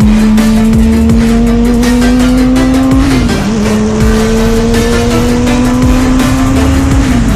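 Motorcycle engine pulling through the gears: its pitch climbs steadily, drops briefly at an upshift about three seconds in and again near the end, then starts climbing again.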